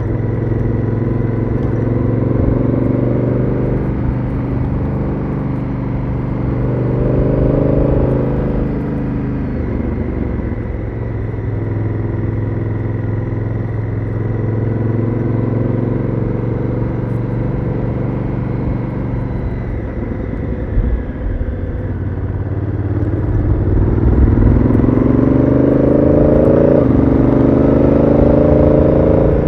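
Honda Africa Twin CRF1000L's parallel-twin engine through its stock exhaust, heard onboard, pulling up through the revs several times. Late on, the pitch drops suddenly as the DCT gearbox shifts up, then climbs again. Wind rumbles underneath.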